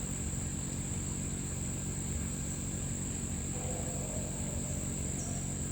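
Steady high-pitched chirring of crickets over a low, steady hum.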